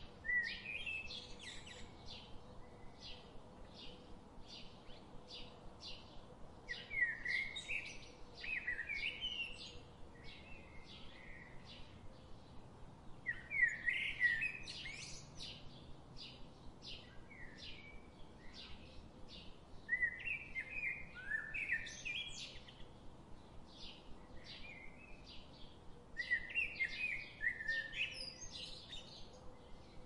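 Forest birdsong: one bird repeating a short, high chirp about twice a second, while another sings a louder warbled phrase about every six seconds.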